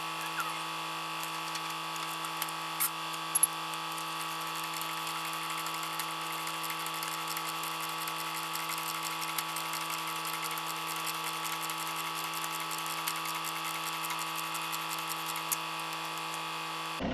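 Steady electrical-sounding hum made of several fixed tones, with scattered faint clicks and ticks and a few sharper clicks in the first few seconds.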